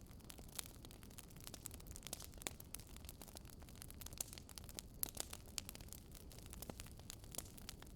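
Wood fire crackling: quiet, irregular sharp pops and snaps over a low steady rumble.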